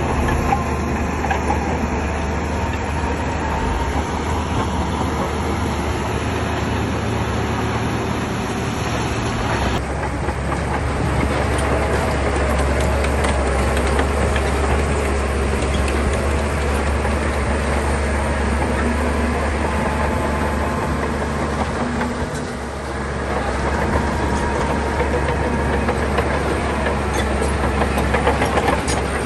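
Shantui crawler bulldozer's diesel engine running under load, with its steel tracks clanking and rattling; the engine eases off briefly about two-thirds of the way through.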